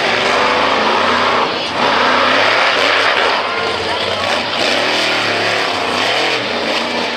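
Monster truck engine revving hard, its pitch rising and falling again and again, with a brief drop in level about a second and a half in.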